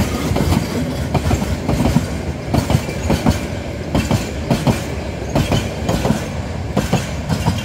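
Oil tanker wagons of a freight train rolling past, their wheels clattering over the rail joints in a steady run of clicks and clanks over a low rumble.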